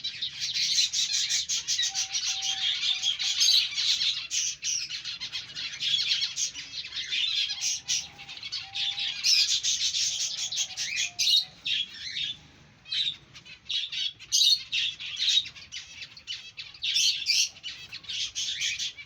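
A colony of aviary finches chirping, many short high calls overlapping almost without a break, thinning briefly a little past the middle.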